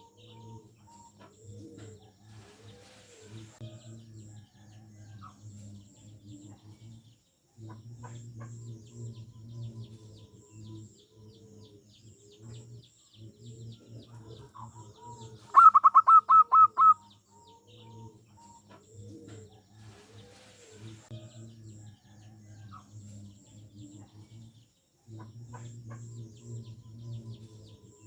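Zebra dove (perkutut) cooing in repeated low rolling phrases with short pauses, and a brief loud burst of about five rapid, higher notes a little past the middle.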